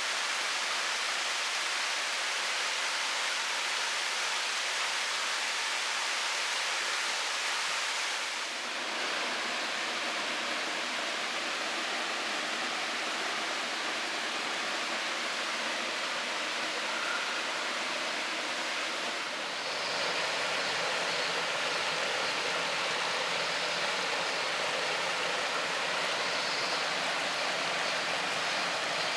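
Waterfall and mountain stream water rushing as a steady hiss, at a low summer flow. The sound's character changes abruptly twice, about a third and two thirds of the way through.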